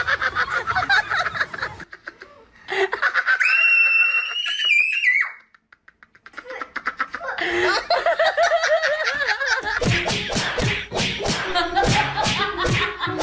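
People laughing, broken by a high, steady squeal lasting about two seconds, then a pause and more laughter; from about ten seconds in, music with a beat.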